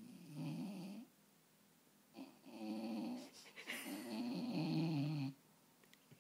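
Basset hound snoring in her sleep: three snores, the last the longest and loudest, ending about five seconds in.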